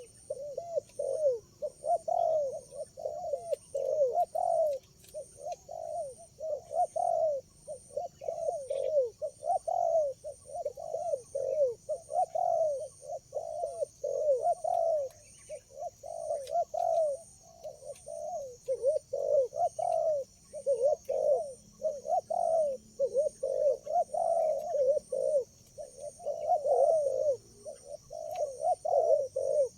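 Spotted doves (tekukur) cooing continuously, with phrases overlapping one another as if more than one bird is calling. Under them runs a faint steady high-pitched buzz with a regular pulse.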